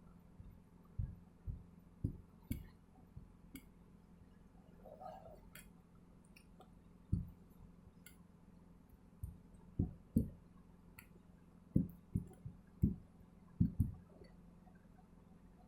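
Homemade slime being squeezed and worked by hand, giving an irregular run of soft squishes and pops with faint clicks. The pops come more often toward the end.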